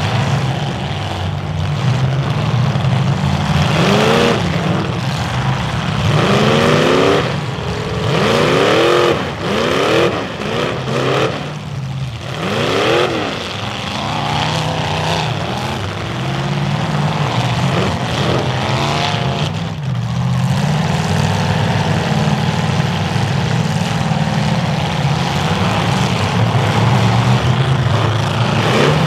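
Several demolition derby cars' engines running loud, revving up and down over and over in the first half as the cars reverse and charge, then settling into a steadier, heavy drone with a few more revs later.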